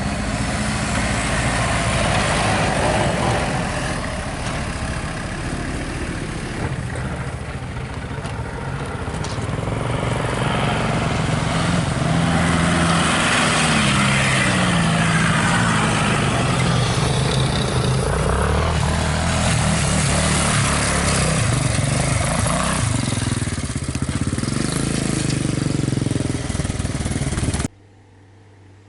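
Engines of jeeps and motorcycles in a parade running and passing, their pitch rising and falling as vehicles go by. Near the end the sound cuts off suddenly to a much quieter steady hum.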